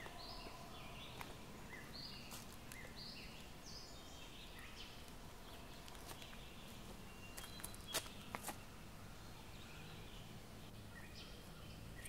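Small songbirds singing in short runs of high, quick notes, busiest in the first few seconds and again after the middle. A few sharp clicks, like steps or twigs underfoot, come a little after the middle.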